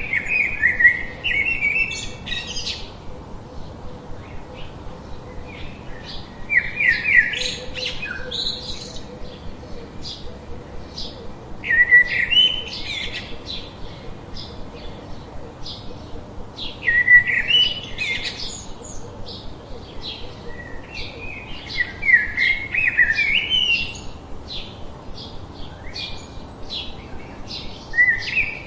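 A songbird singing a short, fast, warbling phrase, repeated about every five seconds, over a steady background of faint short chirps from other birds.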